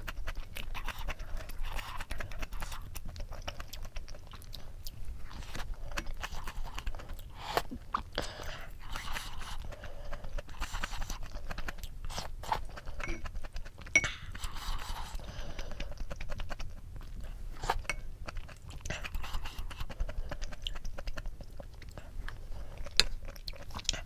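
Close-miked eating sounds: chewing and crunching of bibimbap with raw bomdong (spring cabbage) leaves, with a wooden spoon scraping and tapping against the ceramic bowl in many short clicks, two of them sharper, about fourteen seconds in and near the end.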